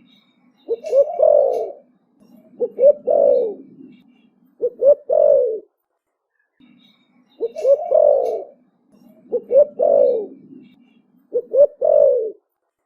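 Spotted dove cooing. It gives six calls in two runs of three, each a quick pair of short notes and then a longer falling coo.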